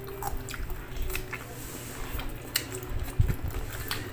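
Close-miked eating: chewing and short wet mouth smacks and clicks, scattered irregularly over a low steady hum.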